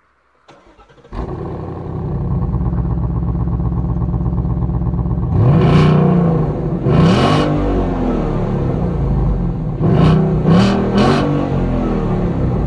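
2017 Ford Mustang GT's 5.0-litre Coyote V8 heard at the exhaust tailpipe, idling steadily from about a second in, then revved in short blips: two around the middle and three quick ones near the end.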